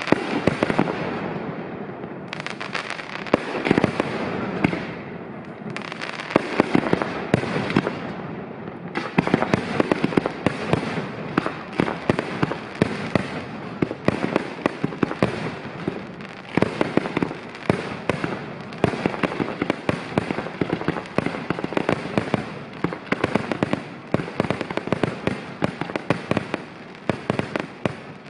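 Aerial firework shells bursting in a rapid barrage of sharp bangs. The barrage grows denser and almost continuous after about nine seconds.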